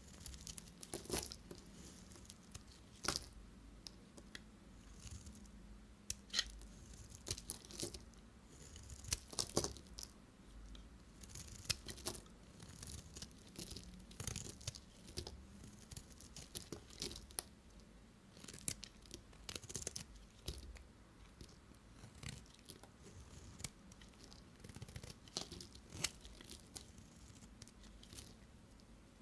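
Knife cutting bars of soap: a string of irregular, crisp crackling cuts and scrapes.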